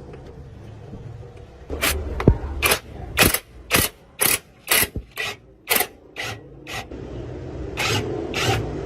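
Rasping strokes of a hand tool working metal, about two a second: nine or so in a row, then a pause and two more near the end.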